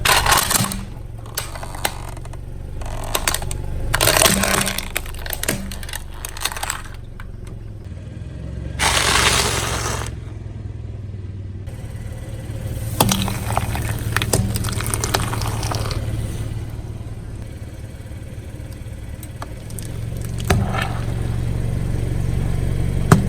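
Car engine running low and steady while its tyre rolls over and crushes objects, with bursts of crunching and crackling several times.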